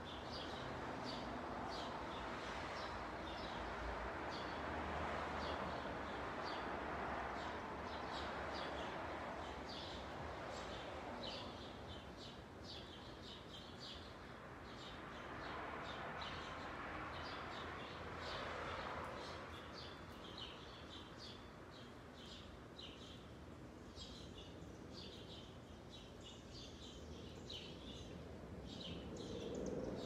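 Small birds chirping in many short, quick notes throughout, over a rushing outdoor background that swells and fades a few times.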